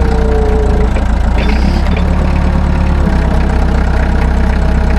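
An engine idling steadily with an even low rumble.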